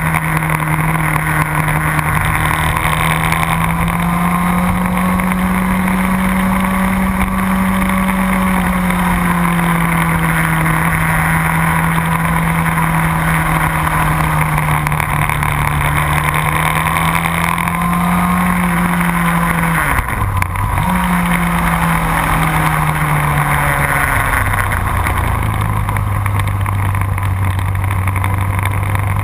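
Motorcycle engine running hard on a race track over a steady rush of wind. The engine note rises and falls as the rider works the throttle, dips sharply and recovers about two-thirds of the way through, and settles to a lower note near the end.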